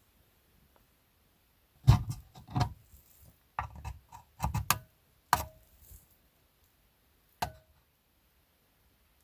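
A run of sharp knocks and clinks from small hard objects being handled and set down, several in quick succession, then a lone one near the end. Three of the clinks leave a brief ringing tone, like metal or glass tapped.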